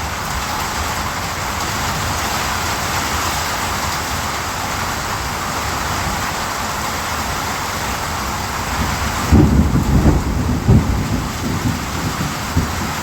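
Steady rain falling, an even hiss. About nine seconds in, a low rumble of thunder rolls in, loud and uneven, and keeps grumbling.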